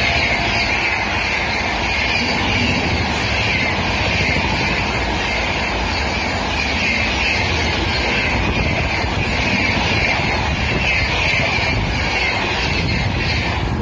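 Express train's coaches rushing past close by at speed: a loud, steady rush of wheels on the rails.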